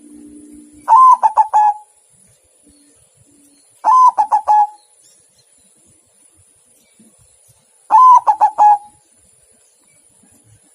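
Zebra dove (perkutut) cooing: three phrases about four seconds apart, each a longer opening note running into a quick series of short notes.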